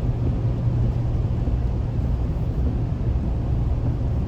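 Car driving on a highway, heard from inside the cabin: a steady low rumble of engine and road noise with a constant low hum.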